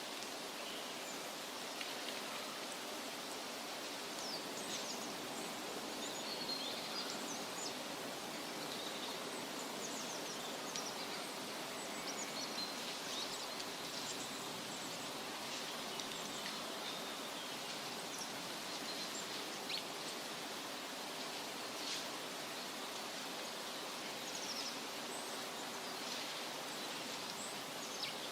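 Forest ambience: a steady hiss with scattered short bird chirps and calls throughout.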